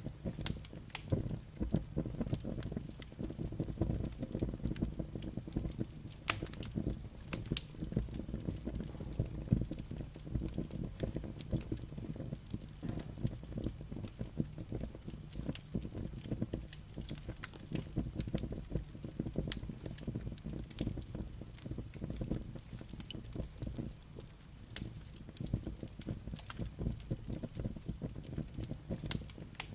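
Wood fire burning in a fireplace: a steady low rumble of flames with frequent, irregular crackles and pops from the burning logs and embers.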